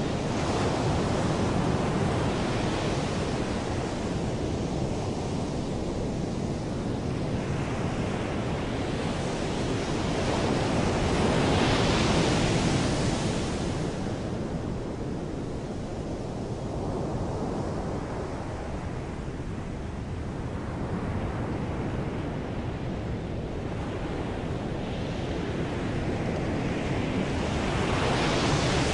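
Ocean surf: waves washing in and drawing back in slow swells of rushing noise, the biggest about twelve seconds in and near the end.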